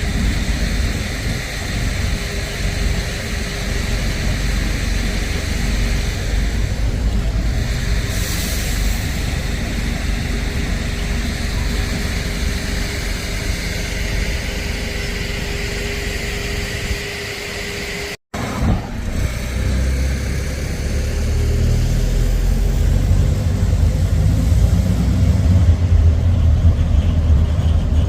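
Road traffic with buses running. A cut comes about 18 seconds in, after which a louder diesel engine rises in pitch as it pulls away.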